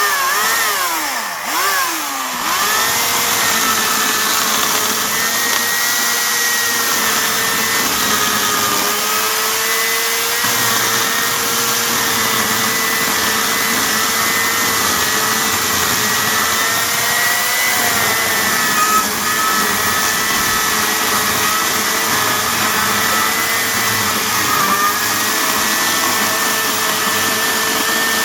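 Hawksmoor 2200W electric chainsaw's motor: its pitch swoops up and down a few times in the first couple of seconds, then it runs on as a steady high whine.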